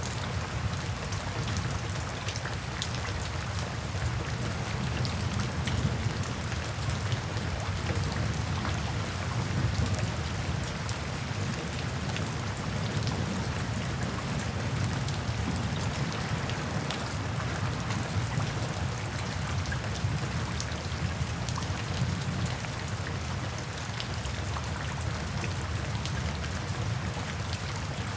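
Steady rain falling, with individual drops pattering on surfaces over a low, continuous rumble.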